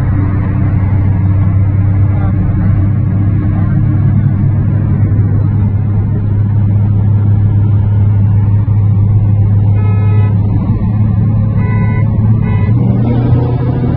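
Car engine running with a steady low drone, its pitch rising a little near the end as it picks up speed. A few short higher tones sound briefly partway through.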